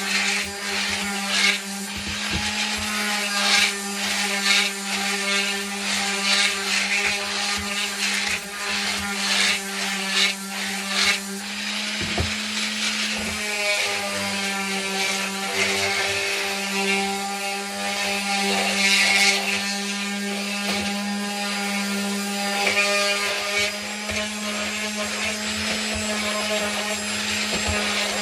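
Power sander with 220-grit paper running steadily on wood, its motor hum constant while the pad scrubs across the surface in repeated rasping strokes, softening the hard edges. The sound dips briefly about twelve seconds in, then carries on.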